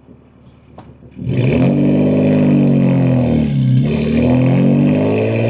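BMW M2 G87's S58 twin-turbo inline-six with catless downpipes and an equal-length mid pipe, accelerating hard about a second in. The exhaust note climbs, dips about halfway through, then climbs again, as with a gear change.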